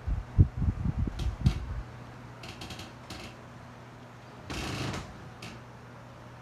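Arno Ultra Silence Force electric fan running: its airflow buffets the microphone in low gusts until about two seconds in, then a steady low hum remains. A few sharp clicks and a brief rush of noise near five seconds come through over it.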